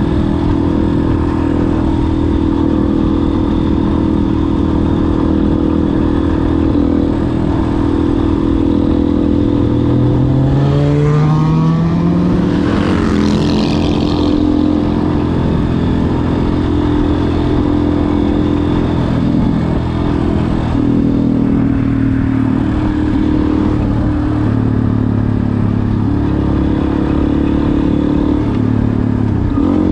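Yamaha Ténéré 250 single-cylinder four-stroke engine running through an aftermarket WACS exhaust tip. It holds a steady note, rises in revs about a third of the way in, and shifts engine speed a few times in the second half.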